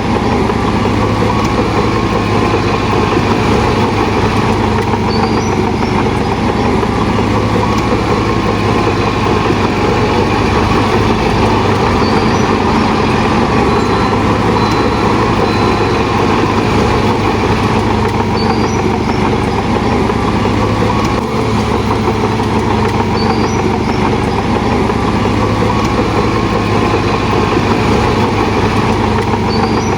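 Bulldozer's diesel engine running steadily with heavy machinery noise, at an even, unbroken level.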